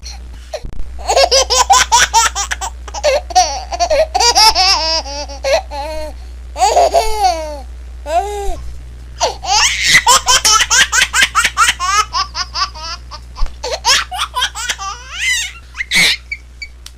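A baby laughing in repeated fits of rapid, high-pitched giggles, with short breaks between bouts and a few rising and falling squeals midway, over a steady low hum.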